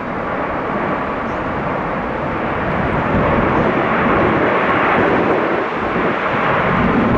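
Jet airliner taking off: a steady engine rush that grows gradually louder.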